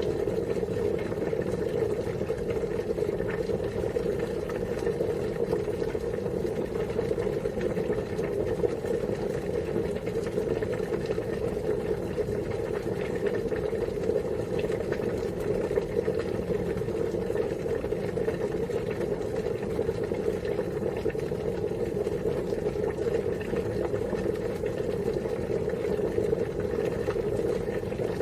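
Water at a steady rolling boil, a continuous even bubbling with no breaks.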